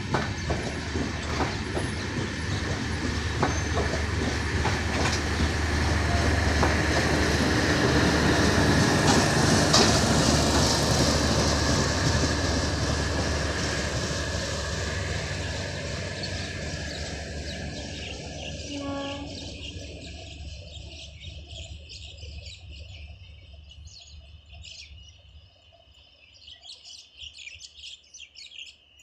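Passenger train coaches rolling past, wheels clattering over the rail joints. The noise builds to its loudest about ten seconds in, then fades as the train pulls away. A short horn sounds about two-thirds of the way through, and birds chirp near the end as the train noise dies away.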